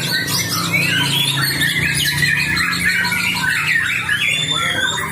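White-rumped shama (murai batu) singing: a loud, unbroken stream of quick whistles, slurred glides, chatter and harsh squawk-like notes, over a steady low hum.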